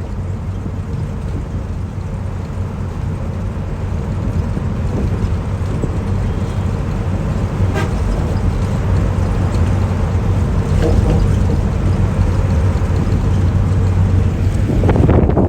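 Steady low rumble of a moving vehicle, slowly growing louder, with a faint horn-like tone partway through.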